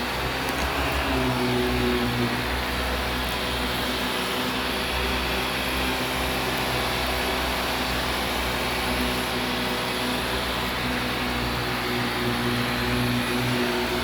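Vacuum cleaner running steadily over carpet: a constant motor hum and hiss.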